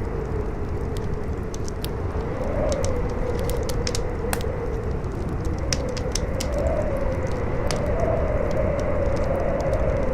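Campfire crackling with scattered sharp pops, over howling wind whose moaning tone rises and falls in slow swells, with a low wind rumble beneath.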